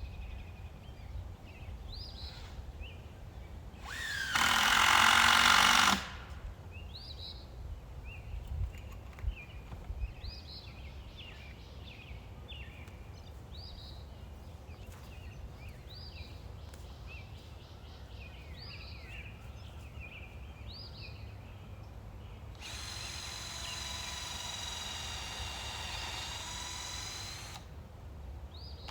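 A power drill runs in a loud burst of about two seconds early on. Near the end it runs again for about five seconds, more quietly and with a steady pitch. Birds chirp in between.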